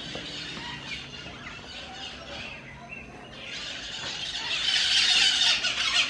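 Many small birds chirping and chattering together, a dense high twittering that grows louder in the second half.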